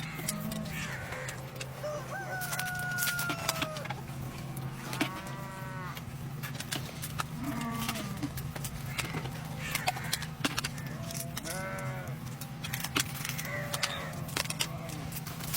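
Chickens calling several times, with a rooster crowing among them, over a steady low hum and scattered clicks.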